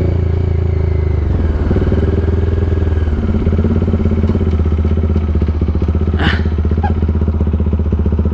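Bajaj Dominar 400's single-cylinder engine running at low revs through an aftermarket SC Project exhaust, its revs dropping about a second in and then holding steady near idle. A short high sound cuts in briefly about six seconds in.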